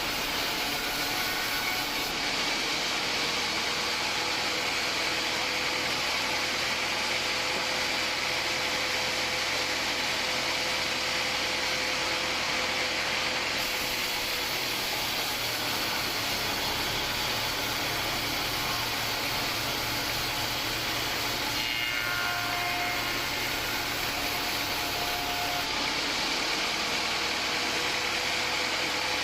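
Homemade band sawmill running steadily as it saws through a hard acacia log.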